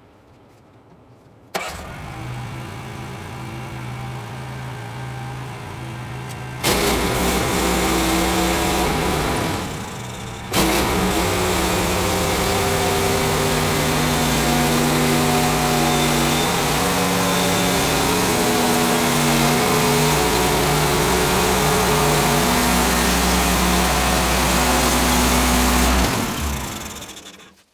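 Small gasoline engine of a Woodland Mills HM130 sawmill starting up and running, stepping up to a louder, higher speed about five seconds later. It runs loud and steady with its pitch shifting, dips briefly, and shuts down near the end.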